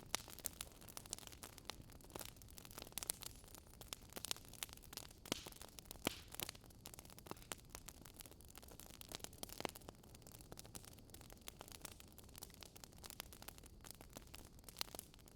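Wood fire crackling: faint, irregular sharp pops and snaps over a steady low hiss.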